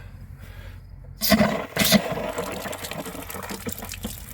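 Outdoor hose spigot opened: water spurts out twice about a second in, then runs steadily, the first water through the newly plumbed line.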